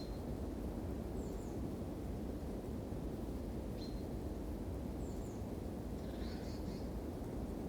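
Campfire burning with a steady low rushing noise, while small forest birds give several short high chirps and quick descending twitters.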